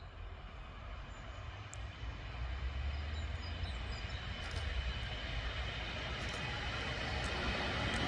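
A train approaching on the line: a low rumble and rushing noise that grows steadily louder.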